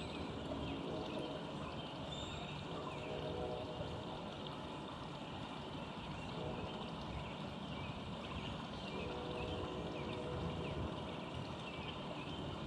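Steady outdoor background noise with a few faint, high bird chirps.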